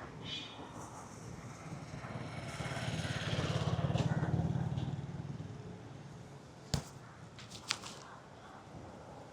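A motor vehicle engine passing by, rising to its loudest about four seconds in and then fading away. Two sharp clicks follow near the end.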